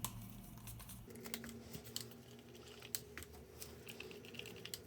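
Faint, scattered light clicks and taps of a stirring stick and plastic cups as acrylic pouring paint is stirred.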